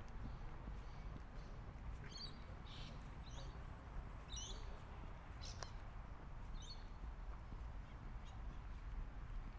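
Birds calling: a series of short, high chirps and call notes, a few at a time, about two to seven seconds in, over a steady low rumble.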